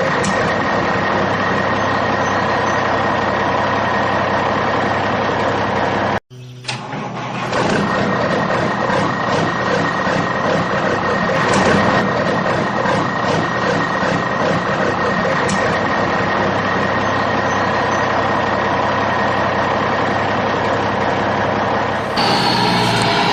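An engine running steadily with a constant hum and whine. It cuts out abruptly about six seconds in and comes back after a moment. Near the end the sound changes and a falling whine comes in.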